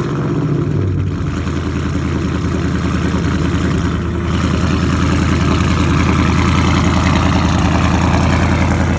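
2021 Dodge Charger Scat Pack's 392 HEMI V8 idling on a cold start, settling within the first second after firing up and then running steadily at a fast idle.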